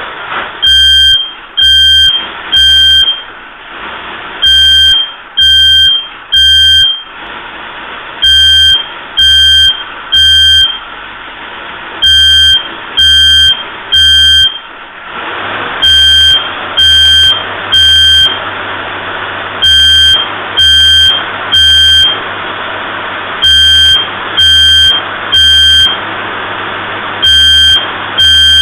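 Smoke alarm sounding its loud three-beep pattern again and again, about every four seconds, over a 1961 Buick LeSabre V8 running steadily after a cold start with its choke running rich. The alarm has been set off by the rich exhaust.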